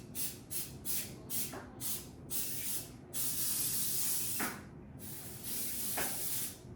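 Aerosol can of non-stick cooking spray coating a baking pan, sprayed in a quick run of short bursts about two a second, then in two longer sprays of a second or two each.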